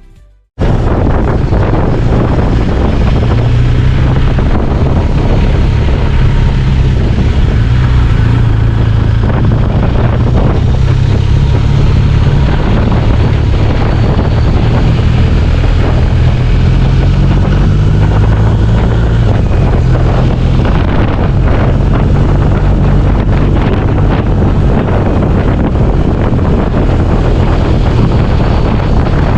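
Motorcycle being ridden, its engine running steadily under heavy wind noise on the microphone.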